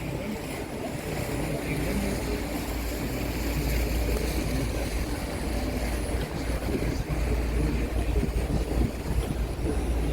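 Tour boat's motor running steadily under way, a low rumble with a haze of water and wind noise.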